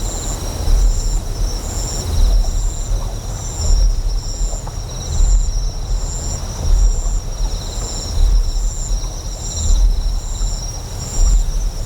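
Deep generator hum that pulses, swelling about every second and a half, under insects chirping in a steady high rhythm and a wash of flowing water.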